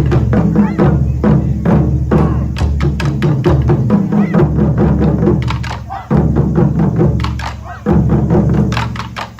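Japanese taiko drums played hard in ensemble: rapid strikes over the deep boom of large drums. The drumming eases briefly about six seconds in and again near eight seconds, each time coming back in with a heavy strike.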